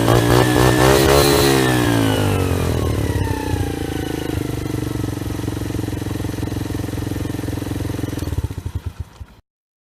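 Romet CRS 50 4T's 50cc four-stroke single revved through its aftermarket slip-on exhaust, peaking about a second in and dropping back to a steady idle. Near the end it stutters and stops, with silence after.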